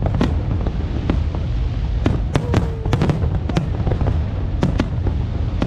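Aerial fireworks display: irregular sharp bangs and crackles over a continuous low rumble of shell bursts.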